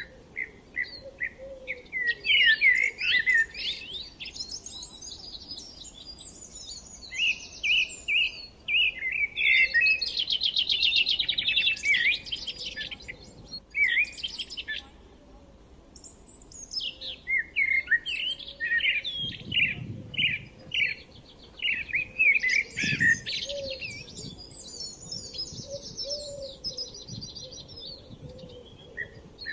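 Several small forest birds chirping and singing over one another. Quick runs of repeated chirps and fast trills come in bursts, with brief lulls between them.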